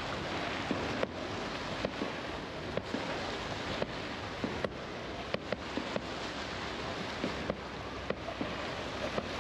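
Fireworks going off: sharp bangs and pops at irregular intervals, one or two a second, over a steady rushing background noise.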